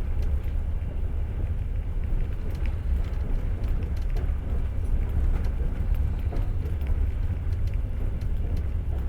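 Passenger train running on the rails: a steady low rumble with occasional faint clicks and knocks of the wheels.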